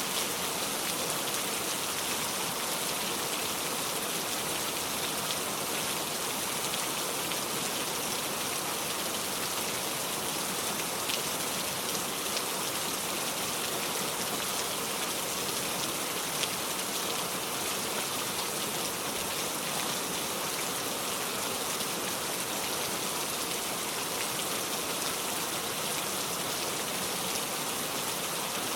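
Steady rain falling: an even hiss of rain with a few scattered drop ticks.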